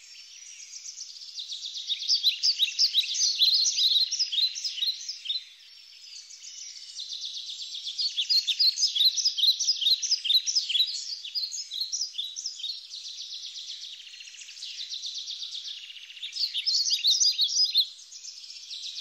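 Dense chirping of many small birds, a busy birdsong chorus that swells and fades in waves. It eases briefly about six seconds in and again near the end.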